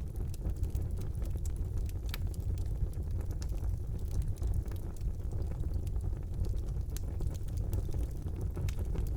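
Wood fire burning in a fireplace: a steady low rumble of the flames with scattered sharp crackles and pops of burning logs.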